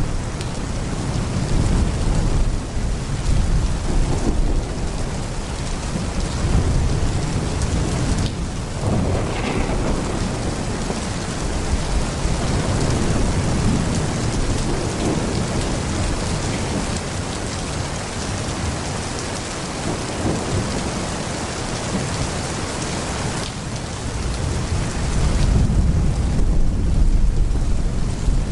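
Heavy rain pouring steadily, with thunder rumbling low underneath, heaviest near the start and again near the end.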